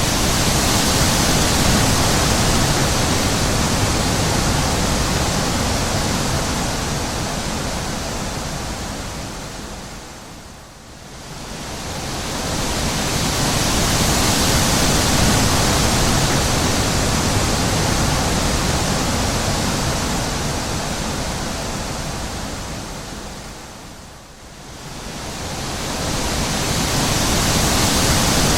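Wind blowing in long, even gusts: a full hissing rush that dies away almost to nothing twice, about 11 and 24 seconds in, and swells back each time.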